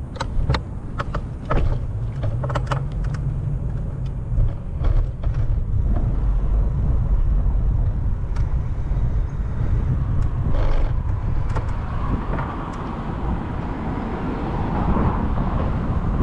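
Outdoor street noise: a steady low rumble with a run of sharp clicks and rattles over the first six seconds.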